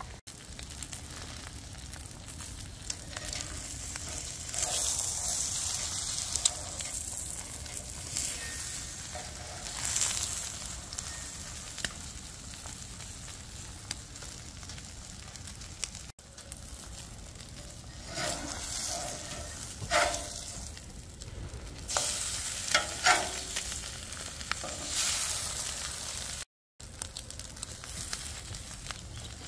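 Food frying on a Blackstone flat-top griddle: a steady, high sizzle that swells louder several times, with a few short, sharp strokes in the second half and a brief dropout near the end.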